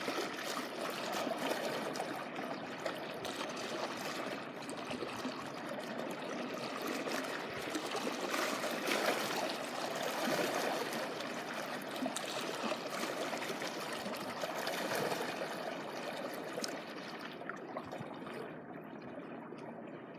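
Small waves washing and trickling over the shoreline in a continuous hiss that swells about halfway through and thins out near the end.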